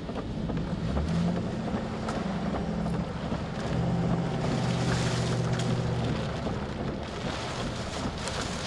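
Storm wind and rain noise around a moving vehicle, with a steady low engine and road hum, heard from inside the cabin.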